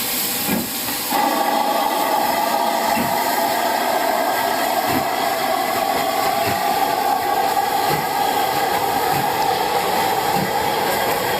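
Train running steadily on the rails, with a constant hiss and faint low knocks every second or two.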